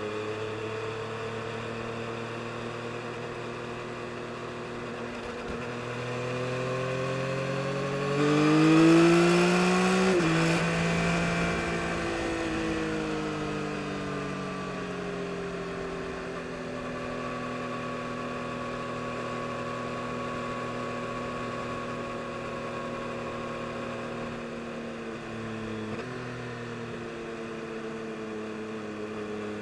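Yamaha MT-09 SP's inline three-cylinder engine running under way, revving up hard about six seconds in and peaking, with an abrupt drop in revs at a gear change. After that the revs fall away slowly and settle into a steady cruise, with a brief step in engine note near the end.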